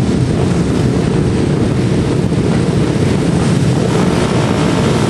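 Single-cylinder Supermono racing motorcycles running hard, mixed with heavy wind buffeting on the microphone.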